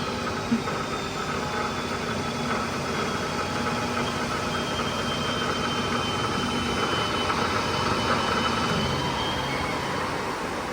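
Hitachi CB32FB band saw running steadily with no blade fitted, in automatic mode: a steady machine hum with a faint high whine.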